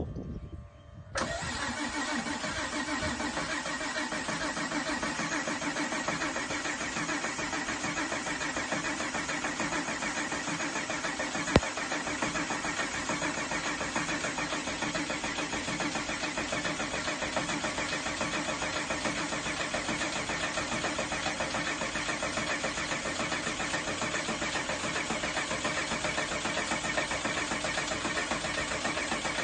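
Porsche 964's air-cooled flat-six engine catching about a second in on its first start after a rebuild, then running at a steady, even idle. A single sharp click sounds about twelve seconds in.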